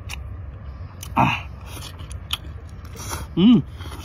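A person chewing a mouthful of mini octopus with roe, with small wet mouth clicks and a louder mouth noise about a second in. Near the end comes a short hum that rises and falls in pitch.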